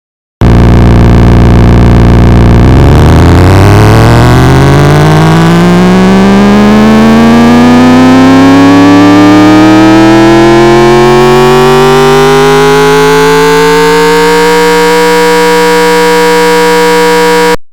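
A synthesized V6 engine imitation made in FL Studio Mobile. It starts at a steady low idle, then climbs smoothly in pitch for about twelve seconds, as if revving up through the range. It holds at a high steady note and cuts off suddenly near the end.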